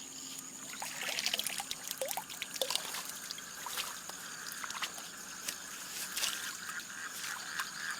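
Shallow water splashing and trickling in small, irregular splashes, starting about a second in, over a steady high insect trill.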